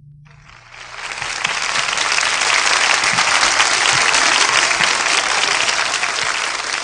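A large audience applauding as the music stops, the clapping swelling over the first second or so and then holding steady.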